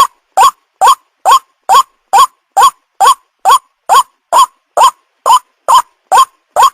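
White-breasted waterhen calls: a short rising note repeated evenly, a little over twice a second, used as a lure call for young waterhens.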